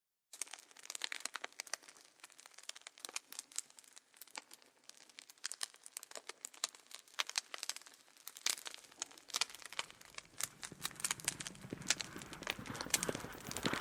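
Campfire crackling: a dense run of irregular pops and snaps, with a low rumble building up under them in the second half and getting louder toward the end.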